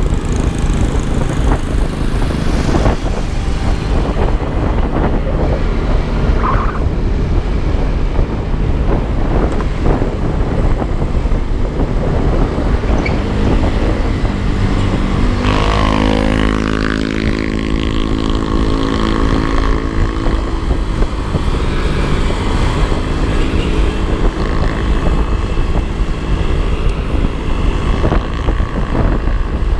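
Yamaha Aerox 155 scooter's single-cylinder engine running on the move, under a steady rush of wind and road noise. About halfway through, a pitched engine drone slides down in pitch and then holds.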